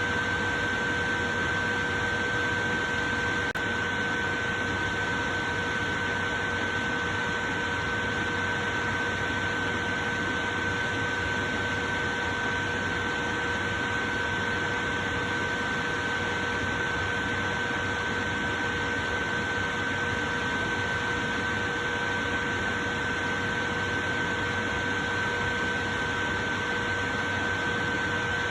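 Portable electric fan running steadily: an even rush of air with a constant whine from its motor.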